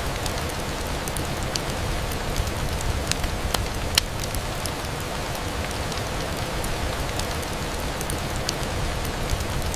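Steady rain on a window: an even hiss with scattered sharp ticks, one louder tick about four seconds in.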